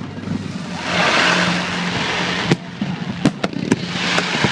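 Aerial fireworks bursting: a loud crackling hiss about a second in, then a run of sharp bangs in the second half, five in about two seconds.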